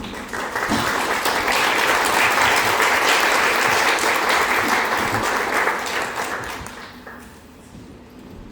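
Theatre audience applauding. The applause swells about half a second in, holds steady, and dies away around seven seconds in.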